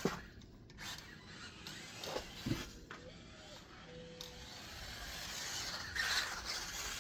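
Small 1/24-scale RC short course truck, a Hobby Plus Speck-B with an upgraded Eco Power brushed motor, driving: a faint electric motor whine and tyre noise with a few clicks, swelling louder near the end.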